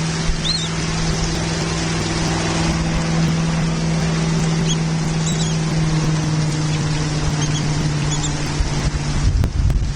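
Wind noise and a steady low hum on an outdoor microphone, with a few faint, short high-pitched bird chirps scattered through. A gust buffets the microphone near the end.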